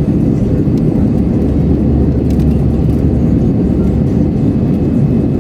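Cabin noise of an Airbus A320 in flight shortly after take-off: the steady low roar of the jet engines and airflow. A few faint clicks can be heard over it.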